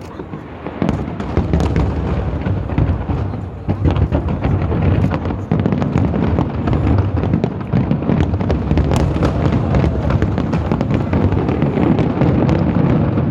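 Fireworks display: a rapid barrage of aerial shell bursts, with deep booms merging into a continuous rumble and many sharp cracks and pops on top.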